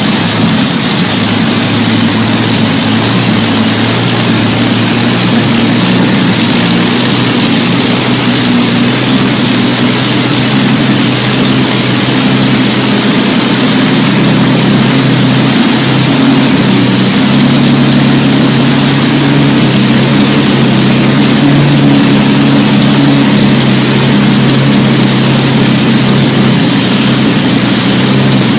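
Large engine running loud and steady just after start-up, a low even hum of several tones under a strong hiss.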